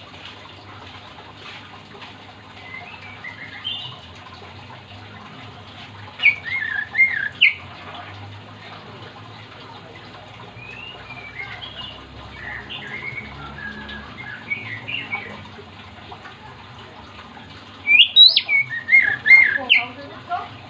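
Oriental magpie-robin (kacer) singing in short phrases of rising and falling whistled notes. The loudest phrases come about six seconds in and again near the end, with quieter phrases between, over a steady low background hum.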